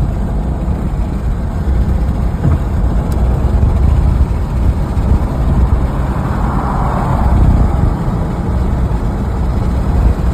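2011 Ford Mustang's 3.7-litre Cyclone V6 engine and road noise while driving, heard from inside the cabin as a steady low rumble.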